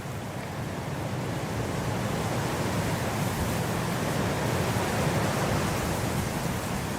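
Blizzard wind blowing, a gust building over the first few seconds and easing slightly near the end.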